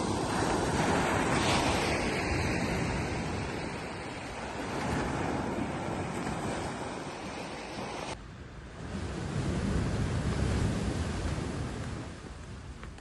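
Sea waves washing onto a beach, swelling and falling, with wind buffeting the microphone. The sound changes abruptly about eight seconds in, then a fresh wave swells.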